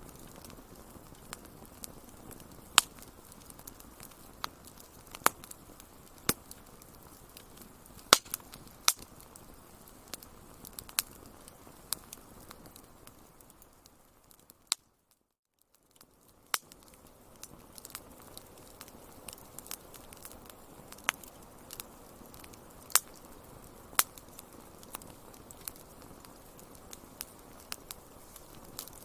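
Wood fire crackling in a fireplace: irregular sharp pops and snaps over a soft steady hiss. About halfway through, the sound fades out almost completely for a couple of seconds, then comes back.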